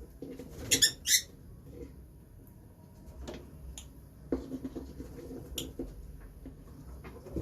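Lovebirds giving a few short, sharp chirps, the loudest a quick pair about a second in, over stretches of soft, rapid ticking from their beaks nibbling vegetables.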